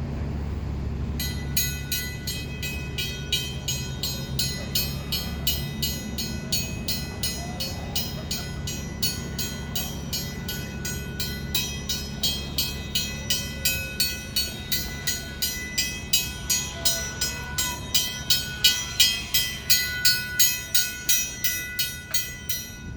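Lift bridge warning bell ringing rapidly, about three strokes a second, over a low steady rumble. It signals that the bridge is in operation and the road is closed; the ringing grows louder toward the end and then stops suddenly.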